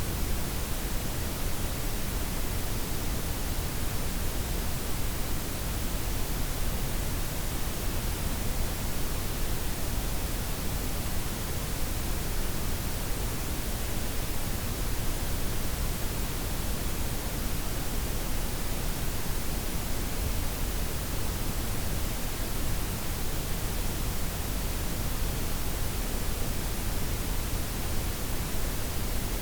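Steady blended noise: white, pink and brown noise layered together, softened at the top end, an even unchanging hiss with a deep low rumble.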